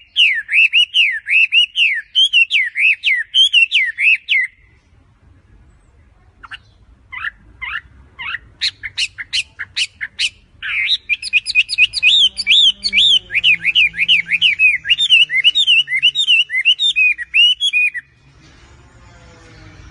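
A songbird singing: quick, repeated chirping phrases for about four seconds, then a pause and a run of single sharp notes that come faster and faster. The fast chirping song resumes about eleven seconds in and stops about eighteen seconds in.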